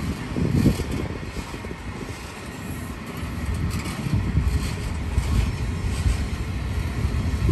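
Freight train rolling past, a continuous rumble of wagons on the track that grows louder from about halfway through.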